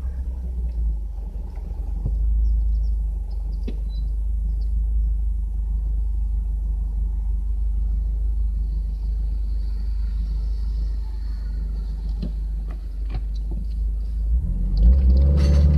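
Subaru Legacy's boxer engine and exhaust running with a steady low rumble, swelling near the end as it starts to rev, with a sharp click just before the end.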